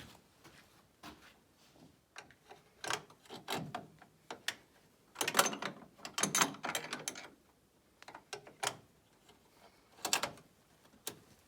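Sharp metallic clicks and clatter of hand work on a snowmobile gearbox as its reverse gear parts are fitted back together. A busier run of clatter comes about five to seven seconds in.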